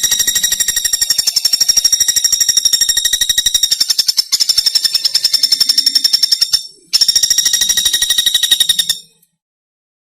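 Pelatuk bawang (common flameback woodpecker) calling in a long, rapid, high-pitched rattling trill. The trill breaks briefly twice and stops about nine seconds in.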